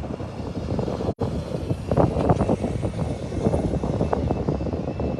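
Heavy vehicle engines, semi trucks of the convoy, running in a steady low drone. The sound cuts out for an instant about a second in.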